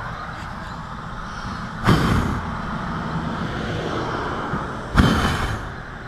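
Steady low vehicle rumble, broken by two sudden loud bangs about three seconds apart, each fading over about half a second.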